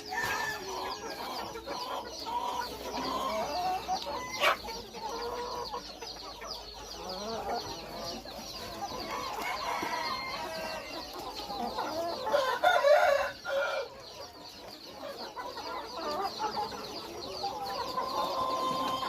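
A flock of chickens clucking steadily at feeding time, with roosters among them and a louder burst of calls about two-thirds of the way through. A single sharp click comes about four seconds in.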